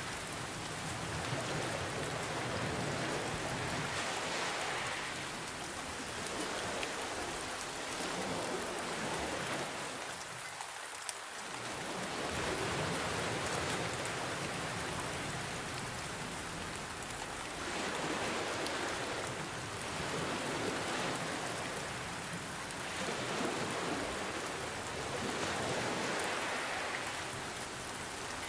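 Steady rain falling, mixed with gentle ocean waves that swell and ebb every few seconds. One sharp tick comes about eleven seconds in.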